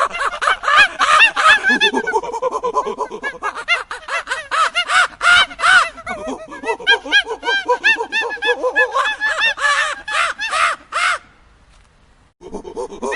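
A flock of birds calling noisily, many short harsh calls overlapping. The calling cuts off suddenly about 11 seconds in and starts again about a second later.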